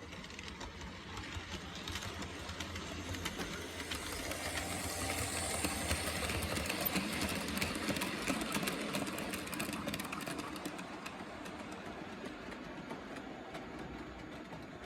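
H0-scale model train running along the track, its small electric motor whirring and its wheels clicking over the rail joints. It grows louder toward the middle, as if passing close by, then fades.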